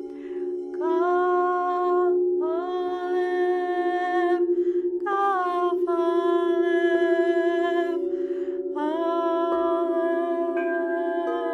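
A woman's voice singing long wordless tones in phrases of a second or two, sliding between notes, over steady sustained drone tones that pulse slowly.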